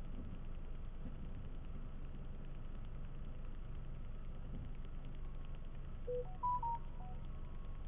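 Steady low engine and road rumble inside a car cabin. About six seconds in, a short electronic chime of four or five quick tones rises and then falls.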